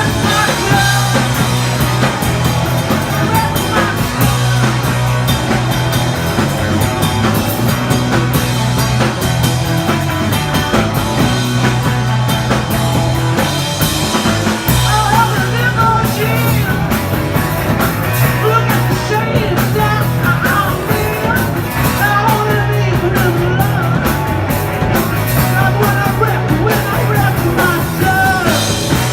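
Punk rock song played by a band, with singing over the instruments and a loud bass line that changes note every couple of seconds.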